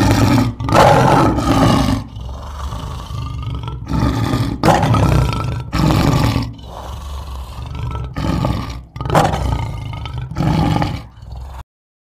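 An animal roaring in a series of loud calls, with a lower, quieter sound between them. The sound cuts off abruptly shortly before the end.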